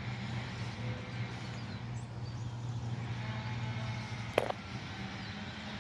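Steady low engine hum from an idling vehicle or machine, with one short sharp knock about four seconds in.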